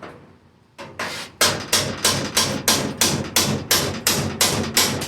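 Hammer striking a screwdriver used as a chisel on the sheet-metal floor of a 1980 Jeep CJ7, working the panel loose at its spot welds. Steady, sharp blows start just under a second in and come about three a second.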